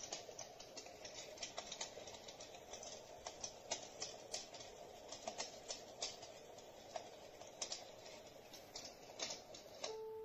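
Soothing-sound track from a Dreamegg Pocket Sleep 1 mini white-noise machine: a soft steady hiss with irregular sharp crackling clicks scattered through it. A few piano notes begin right at the end.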